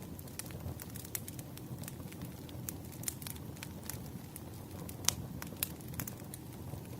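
Bonfire crackling: a steady low rumble of burning wood with scattered sharp pops, the loudest about five seconds in.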